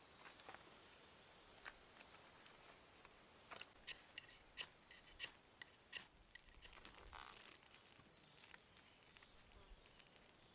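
Quiet food-preparation handling: a quick run of sharp clicks or snips in the middle, then soft rubbing.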